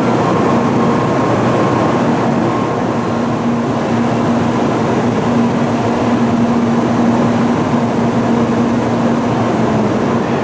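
Steady running noise of a train in motion, with a constant low hum.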